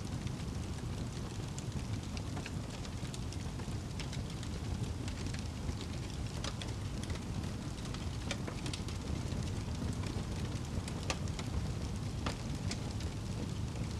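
Wood fire crackling and popping in sharp, irregular clicks over a steady low rumble.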